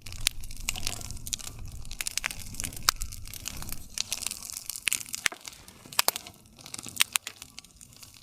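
Wood campfire crackling: irregular sharp pops and snaps of burning wood over a low rumble of the flames, with a few louder snaps about three seconds in and again around six to eight seconds.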